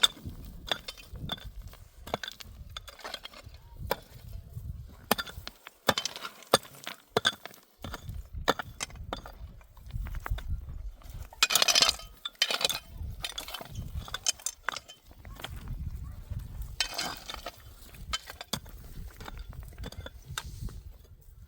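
Irregular clinks and knocks of objects being handled, with a couple of brief scraping or rustling bursts near the middle and later on.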